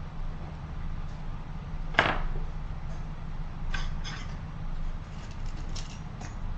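Small tools scraping and tapping on a phone's charging IC as it is cleaned, with one sharp tap about two seconds in and short scratchy strokes later, over a steady low hum of bench equipment.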